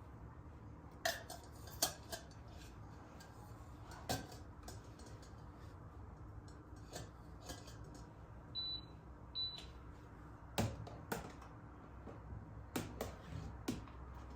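Kitchenware being handled: scattered clinks and knocks of dishes and utensils. Two short, high electronic beeps come about halfway through, like an appliance's keypad.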